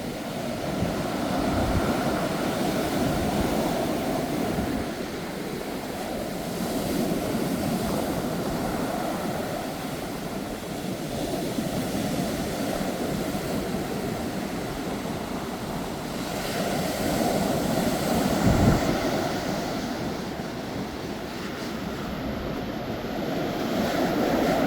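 Sea surf crashing and washing in strong, near-typhoon wind, the roar swelling and ebbing every few seconds as waves break. A low thump stands out about three-quarters of the way through.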